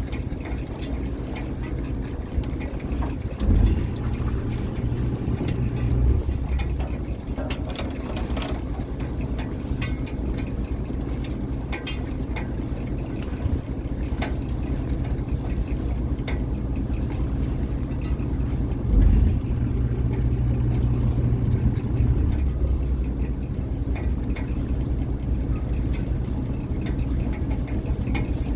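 Net fishing boat's engine running steadily, with two brief loud thumps, one a few seconds in and one about two-thirds of the way through, and scattered small clicks.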